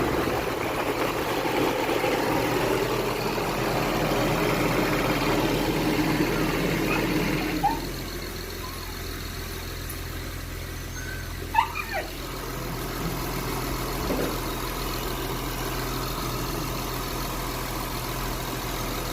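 Honda Accord's 3.0 V6 idling steadily after its knock sensor and wiring harness were replaced. It is louder for the first seven or so seconds, then quieter after a click. A few short chirps come around twelve seconds in.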